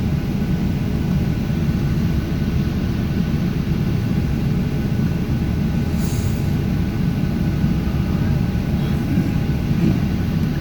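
Boeing 737-700's CFM56 jet engines running, heard from inside the passenger cabin: a steady low rumble with several faint steady whining tones above it. A brief hiss about six seconds in.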